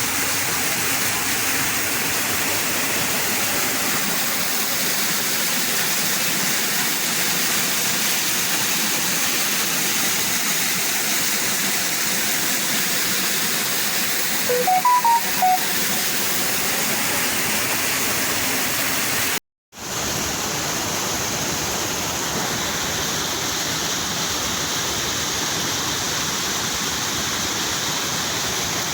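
Rushing water, a steady, even roar like a waterfall or fast stream. A few short high notes sound about halfway through, and the sound breaks off for a moment before carrying on unchanged.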